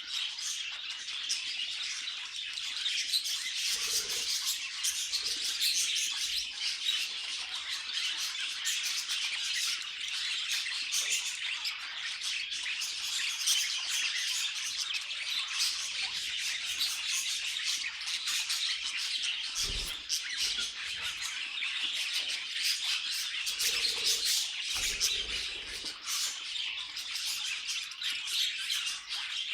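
Several budgerigars chirping and warbling continuously, a dense busy chatter of high chirps and squawks. A few faint low thumps.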